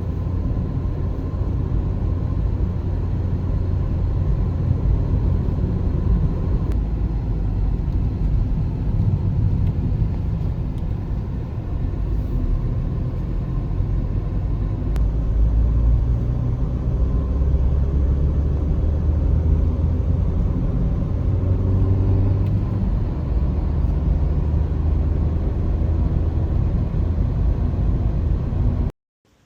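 Car driving: a steady low rumble of engine and road noise, which cuts off abruptly just before the end.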